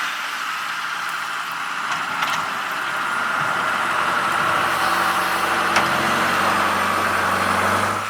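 Car cabin noise while driving: a steady hiss of road and blower noise, with a low engine hum that comes in and grows louder about halfway through. A few faint ticks are heard.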